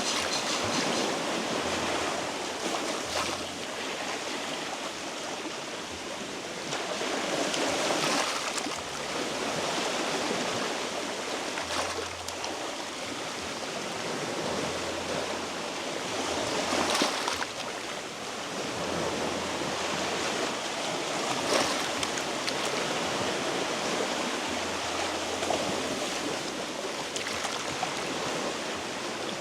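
Sea waves washing over shore rocks: a continuous hiss of surf that swells and eases every few seconds.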